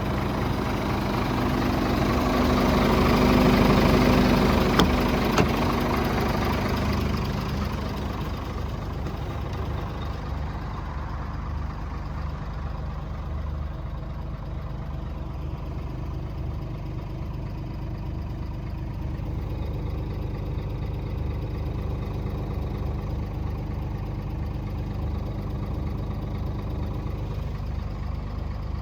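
Scania R450 truck's six-cylinder diesel engine idling steadily. A louder rushing noise over it builds up in the first few seconds, with a couple of clicks, and dies away after about seven seconds, leaving the plain idle.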